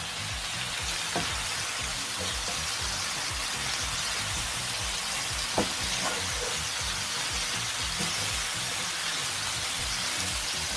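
Bell peppers and spring onions stir-frying in hot oil in a wok: a steady sizzling hiss, with a couple of light clicks from the stirring utensil.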